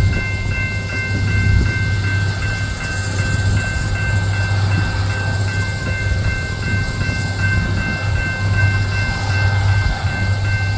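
Loram SBC-20 shoulder ballast cleaner working the track: a steady low engine drone with a rough rumble, and a steady high whine of several thin tones above it.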